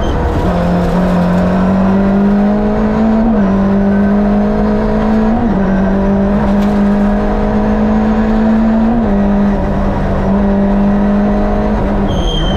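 Lada VFTS rally car's Fiat 2-litre twin-cam four-cylinder engine heard from inside the cabin, pulling hard at high revs. The pitch climbs steadily and drops back sharply three times, like gear changes under acceleration. A thin, high steady tone starts near the end.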